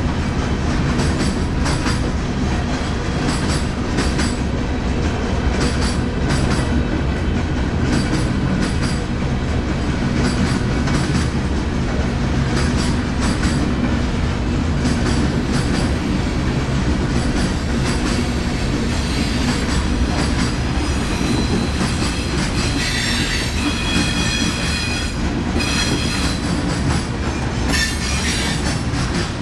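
Train rolling past: steady rumble of the cars with wheels clicking over the rail joints, and several stretches of high-pitched metal wheel squeal in the second half.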